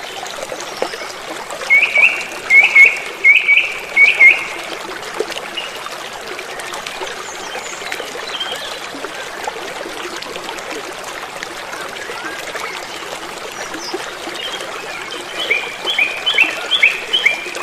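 Creek water running and trickling steadily, with a bird calling a quick series of short chirps twice: about two seconds in and again near the end. The chirps are the loudest sounds.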